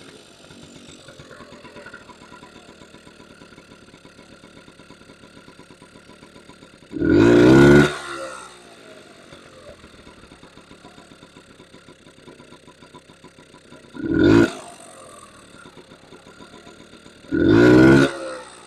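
1977 Honda Express NC50's two-stroke single-cylinder engine idling steadily, blipped briefly up to a higher rev three times: about seven seconds in, around fourteen seconds and near the end. It is running after a weak ground that starved it of spark was fixed, and is being tuned.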